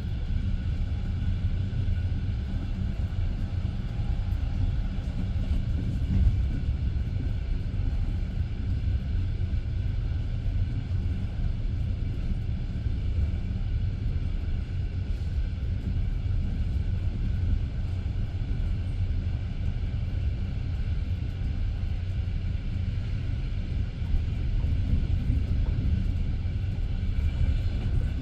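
Passenger train coach running along the rails, heard from inside the carriage: a steady low rumble of the wheels on the track, with one louder knock about six seconds in.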